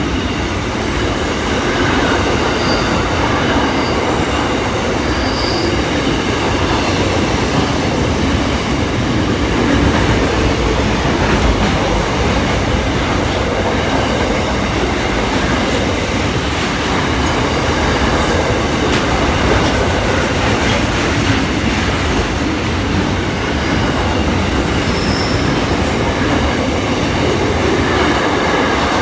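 Container freight train's wagons rolling past, a steady loud rumble of steel wheels on rail, with a few brief high squeals.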